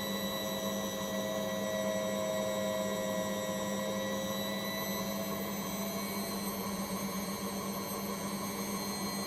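A household appliance's motor running steadily during a cleaning cycle with a dishwasher tablet. It makes a constant low hum with a thin whine above it that rises slowly in pitch.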